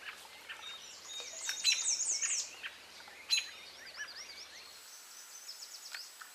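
Songbirds singing and chirping, with runs of quick, high, down-slurred notes about two seconds in and again about four seconds in.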